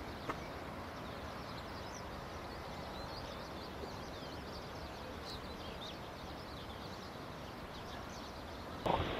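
Outdoor ambience of small birds chirping and twittering, many short high calls over a steady background hiss, with a single click just after the start. Just before the end a louder, different sound cuts in.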